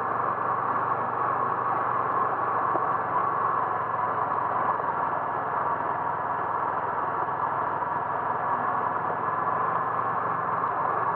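Steady vehicle engine and road noise while driving, an even rumble that holds without change.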